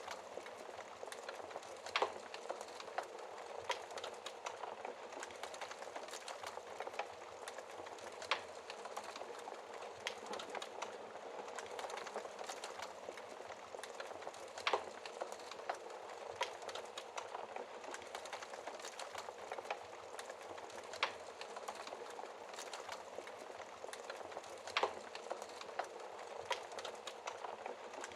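Wood fire burning in a fireplace: a steady low hiss and soft flutter of flames, with constant small crackles and a few louder pops from the burning logs.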